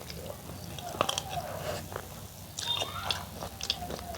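Close-up eating sounds of chicken curry and rice: biting and chewing, with a scatter of sharp crunches and smacks, the clearest about a second in and a cluster near three seconds.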